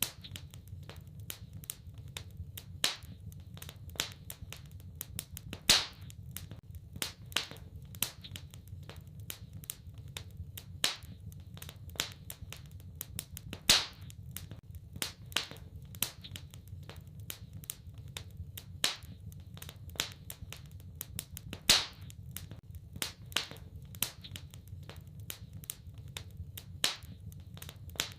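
Wood fire crackling in a fireplace: irregular sharp pops and snaps, with a louder pop about every eight seconds, over a low steady rumble.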